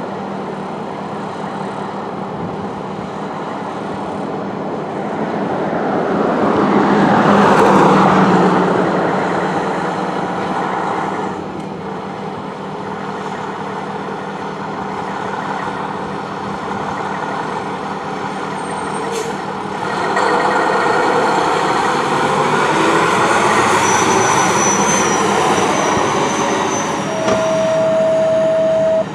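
A fire engine's diesel engine and tyres going by on the road amid traffic, swelling loud as it passes. Near the end there is a short steady tone.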